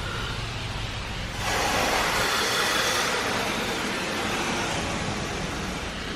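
Inside an automatic tunnel car wash, a loud hissing rush of water spray suddenly starts hitting the car about a second and a half in, then slowly eases, over a steady low rumble of the wash machinery.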